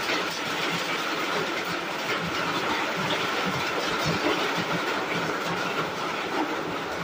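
Heavy rain falling steadily: a dense, even hiss made of many small pattering hits.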